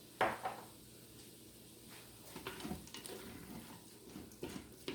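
Light kitchen handling sounds: a sharp knock about a quarter second in, then a few scattered soft clicks and scrapes.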